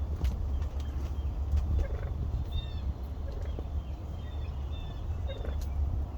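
Wild turkeys calling close by, short calls repeated every second or two.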